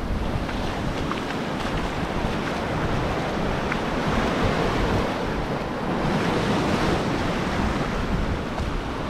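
Ocean surf washing onto the shore in a steady rush that swells a little a few seconds in, with wind buffeting the microphone.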